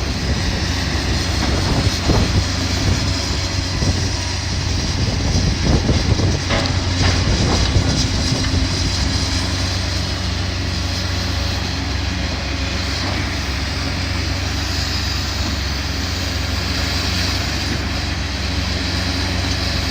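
Heavy demolition machine's engine running steadily, with knocks and clatters of debris being moved during the first several seconds.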